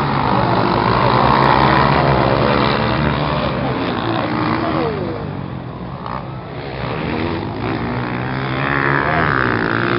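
Motocross dirt-bike engines running, revving up and down, easing off about six seconds in before building again.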